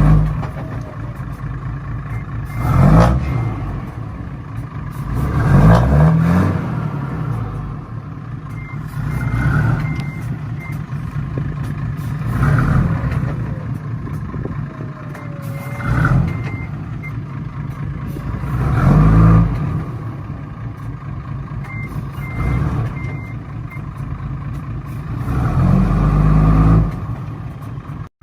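Heavy truck engine running and revving up again and again, about every three seconds, with short high beeps in groups of three to five sounding four times.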